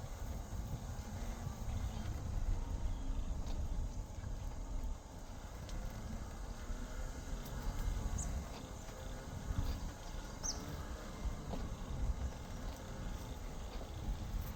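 Footsteps while walking, under a steady low rumble of wind on the microphone, with two short faint high chirps about eight and ten seconds in.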